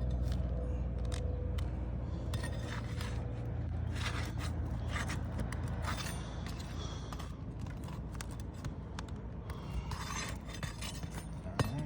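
Asphalt roof shingles being worked loose: irregular scraping and scattered clicks as fasteners are pulled and a shingle is slid out from under the course above.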